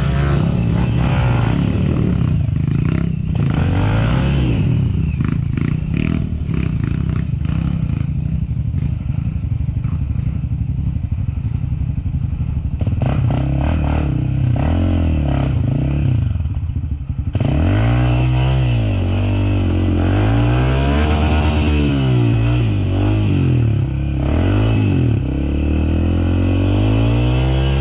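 Off-road dirt bike engines running, with knocks and rattles through the first half; past the middle the revs rise and fall again and again, every second or two.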